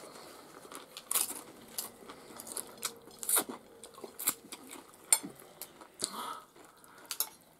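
Close-up chewing of crunchy nacho chips: a string of irregular sharp crunches and mouth sounds.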